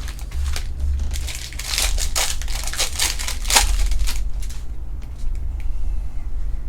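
Foil wrapper of a Panini Prizm UFC trading-card pack being torn open and crinkled by hand, a dense run of crackles that thins out about four seconds in, over a steady low hum.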